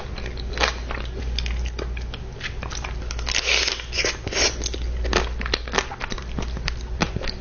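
Close-miked eating sounds: biting into and chewing a dessert, a dense, irregular run of crisp crackling and crunching clicks.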